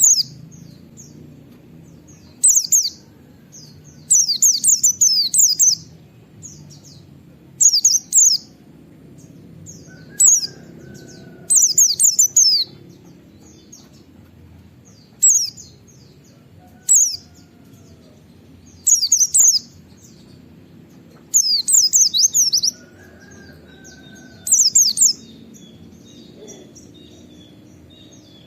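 White-eye (pleci) singing in short, rapid, very high bursts every two to three seconds: the fast "nembak" song mixed with "wit wit" notes.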